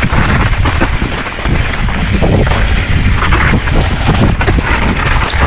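Mountain bike riding fast down a rough, rocky trail: a loud, continuous rumble of wind buffeting the microphone, with a dense run of knocks and rattles as the bike hits rocks and roots.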